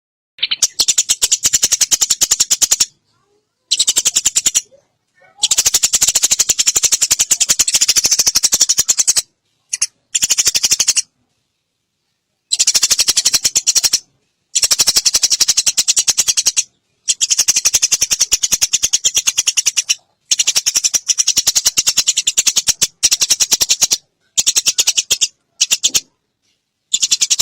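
Eurasian tree sparrows chattering rapidly and harshly in the agitated way of sparrows fighting. The chatter comes in bouts of one to three seconds, broken by short gaps of dead silence.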